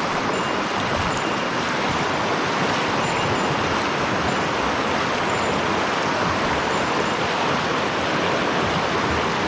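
Mountain stream rushing steadily, running high after rain. Faint short high peeps recur about every half second.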